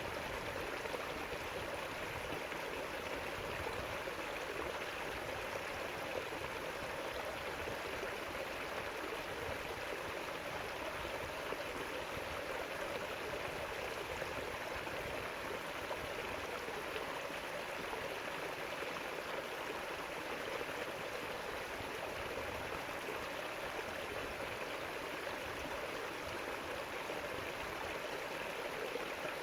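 River water flowing over rocks: a steady, even rush with no breaks.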